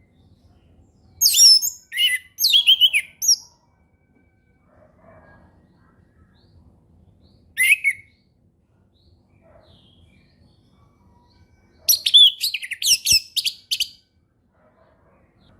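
Orange-headed thrush singing in the free, flowing 'ngeplong' style: quick runs of high whistled notes in three bursts, about a second in, briefly near eight seconds, and a longer run about twelve seconds in.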